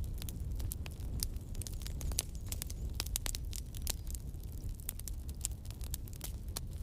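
Campfire burning, wood crackling and popping in quick irregular snaps over a steady low rumble.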